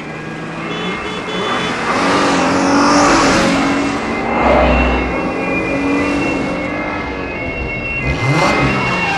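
Car engines revving hard at speed in a film's motorway car-chase soundtrack, with a car sweeping past about eight seconds in.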